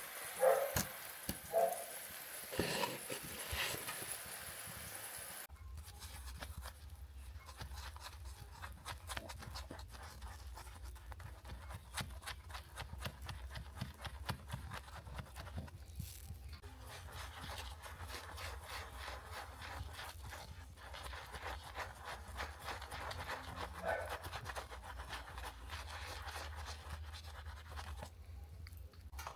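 Small bristle brush scrubbing a model car's body: a dense, rapid scratching over a steady low hum that starts with a sudden change about five seconds in.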